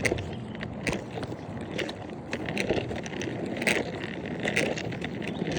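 Scooter rolling along a trail, with a steady rolling noise and irregular knocks and rattles from the wheels and frame.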